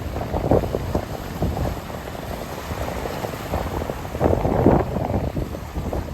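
Small waves lapping and splashing at the shoreline in uneven surges, the biggest splash about four and a half seconds in, with wind rumbling on the microphone.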